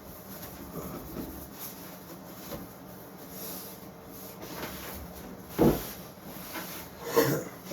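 Workshop handling sounds: quiet shuffling and rubbing, then two sharp knocks about a second and a half apart near the end, like wooden parts being set down or bumped.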